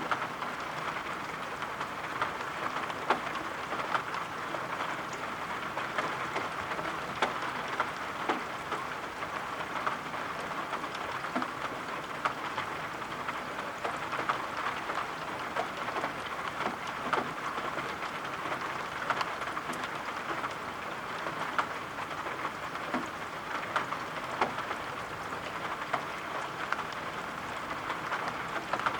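Steady rain falling, with many small drops tapping scattered through it.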